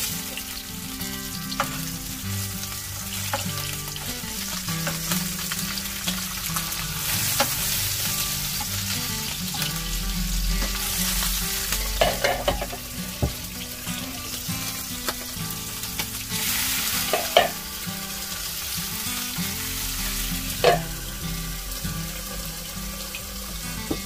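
Salmon frying in a pan: a steady sizzle, with several sharp clicks and knocks of a utensil working in the pan.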